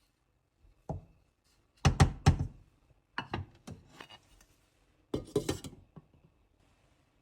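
Dishes and glassware being set down and handled on a table: a series of knocks and clinks in short clusters, loudest about two seconds in.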